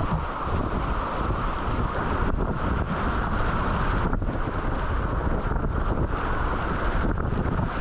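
Steady rush of a shallow, rocky river running through riffles, under a heavy rumble of wind on the microphone.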